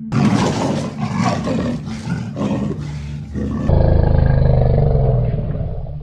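Leopard calling: a run of short, rough rasping calls, about three a second, then one longer, deeper growl from about four seconds in.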